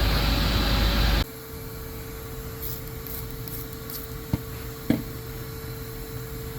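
A shop vac blowing air into the exhaust runs loud and steady with a high whine, then cuts off abruptly about a second in. Four quick squirts from a spray bottle of soapy water follow, then two light clicks, over a faint steady hum.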